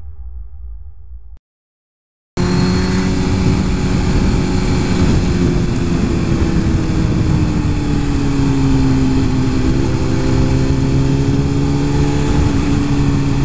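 Music fades out, a second of silence, then a Suzuki GSX-R 1000's inline-four engine runs steadily at cruising speed under heavy wind noise, its pitch easing down a little partway through and then holding.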